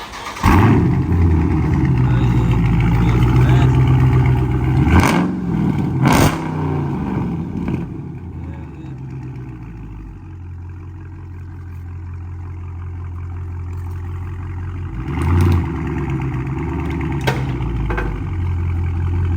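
Dodge Scat Pack's 392 HEMI V8 starting up through a straight-piped exhaust with the mid muffler and resonator deleted. It starts loud, is revved twice about five and six seconds in, then settles to idle, with a short rev again about fifteen seconds in.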